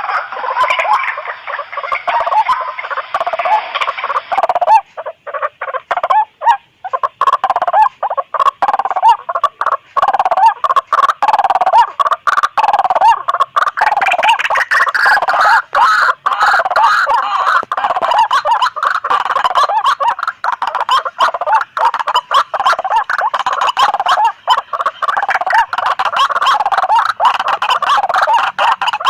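White-breasted waterhens calling noisily, several birds at once: a dense, unbroken chorus of repeated, overlapping calls, the kind of recording played to lure the species.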